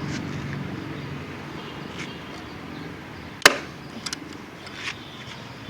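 A low steady hum that fades slowly, then one sharp knock about three and a half seconds in, followed by a few lighter taps and clicks.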